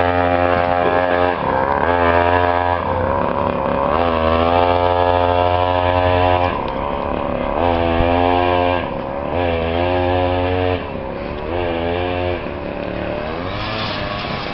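Custom chopper motorcycle engine running under a young rider. Its pitch dips and climbs again about six times as the throttle is eased off and opened.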